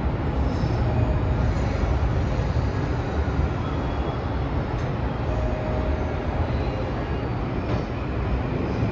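Electric commuter train moving along a station platform: a steady rumble of wheels and running gear.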